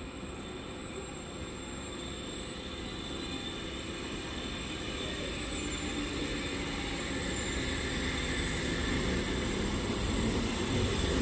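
Zurich S-Bahn double-deck electric trains in motion: one pulling out of the platform and accelerating away while another approaches on the neighbouring track. The running noise grows steadily louder.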